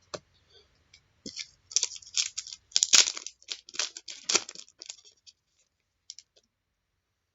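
Foil trading-card pack wrapper being torn open and crinkled: a run of short crackles lasting a few seconds, loudest about three seconds in.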